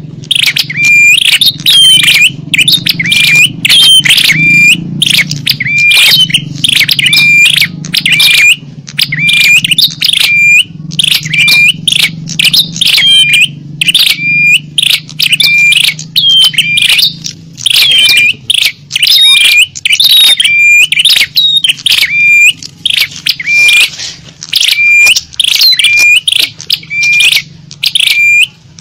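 A small-bird lure call (suara pikat): loud, rapid, repeated high chirps, each a short flat note that flicks upward, one after another with hardly a break. A faint low hum underneath fades out a little past halfway.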